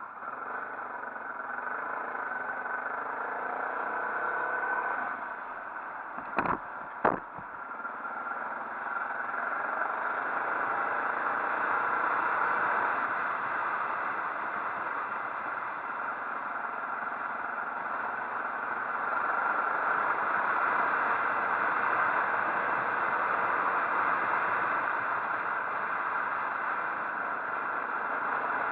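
Motorcycle on the move: a steady mix of engine and wind noise. Two sharp knocks come about six and a half and seven seconds in.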